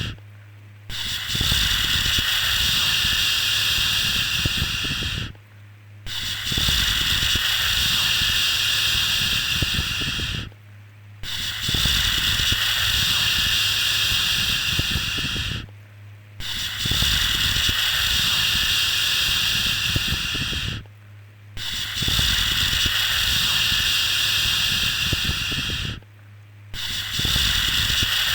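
A long 'shhh' shushing sound for soothing a baby, repeated about every five seconds: each shush is a steady hiss of about four and a half seconds, with a low hum underneath, separated by brief pauses of under a second.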